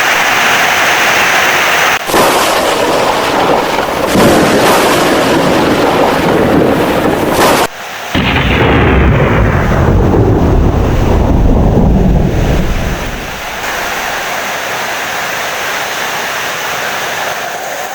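Heavy rain with rolling thunder. A loud, deep rumble sets in about eight seconds in and dies away after about thirteen seconds, leaving a steady rain hiss.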